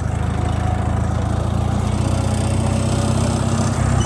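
Small vehicle engine running steadily at an even speed.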